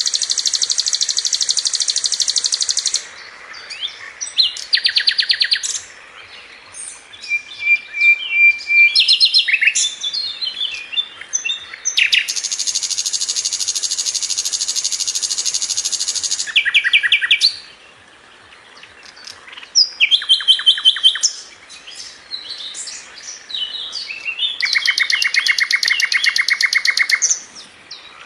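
Sikatan londo (brown-chested jungle flycatcher) singing fast, tightly packed trilled phrases. Long, high rapid trills lasting a few seconds each alternate with shorter, varied chirping notes.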